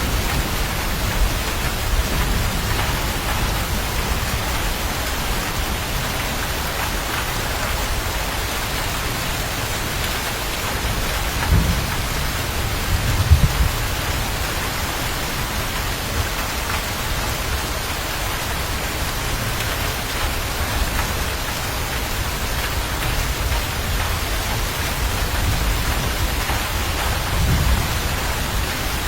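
Steady heavy rain with low rumbles of thunder. The rumbles swell twice around the middle and once more near the end.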